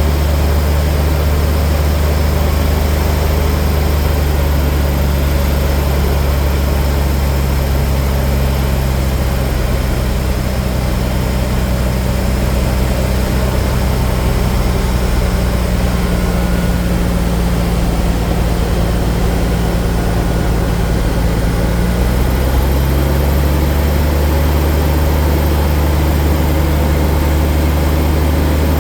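Cessna Bird Dog's six-cylinder Continental O-470 engine and propeller running steadily in flight, with a slight shift in its tone about three quarters of the way through.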